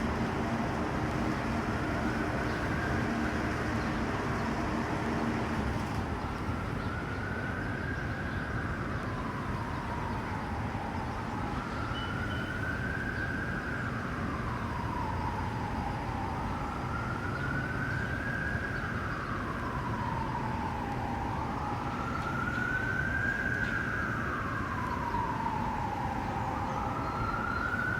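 An emergency vehicle's siren wailing, rising and falling slowly about every five seconds, over the steady noise of rooftop HVAC equipment running.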